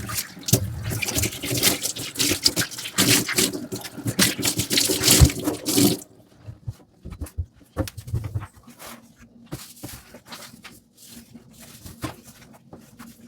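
Dishwashing at a kitchen sink: the tap runs onto the dishes amid scrubbing and clatter, then is shut off abruptly about six seconds in, leaving scattered light knocks and clicks as the dishes are handled.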